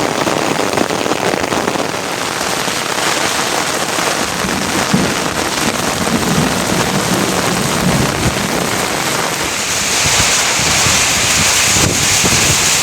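Steady heavy rain falling, an even hiss that grows a little louder and brighter near the end.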